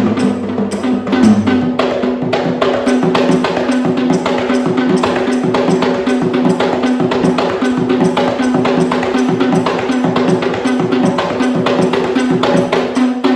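Fast, driving drumming on Sri Lankan rabana frame drums, a dense run of rapid, even strokes over a steady held tone.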